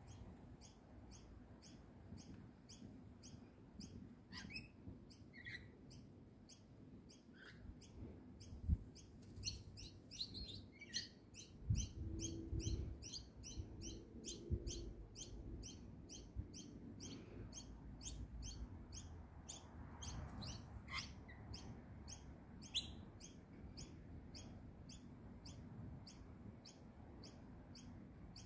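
Birds giving short, scattered chirps and calls, over a steady high-pitched ticking that repeats about three times a second.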